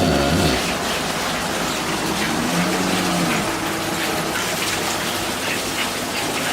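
Steady rush of heavy rain, with a brief low pitched sound about two and a half seconds in.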